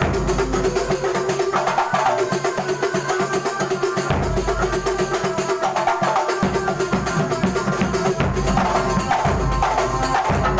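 Kuntulan ensemble playing: a fast, dense rhythm on hand-struck frame drums and drums over a held tone, with heavy bass-drum thumps coming in for stretches of a second or two.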